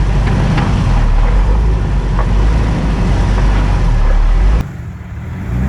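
Off-road 4x4's engine working as it crawls over a rock ledge, a heavy low rumble with a few sharp knocks of tyres or underbody on rock. The loud rumble drops off suddenly about four and a half seconds in.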